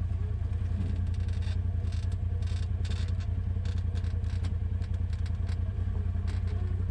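2021 Polaris RZR Pro XP side-by-side's engine running steadily at low speed over a rough, off-camber trail. Scattered knocks and clatter from the machine jolting over rocks run through it.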